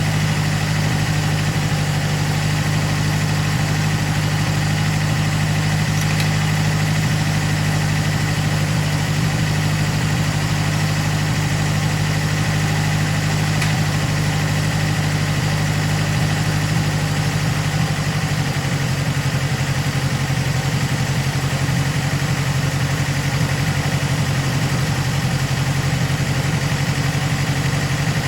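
Datsun 510 Bluebird's L16 inline-four engine idling steadily.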